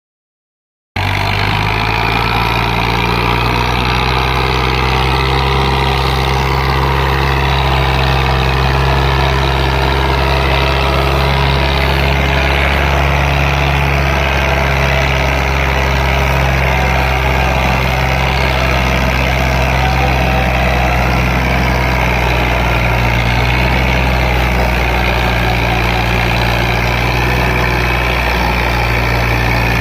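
Fiat tractor's diesel engine running steadily at a low, even speed. It cuts in about a second in.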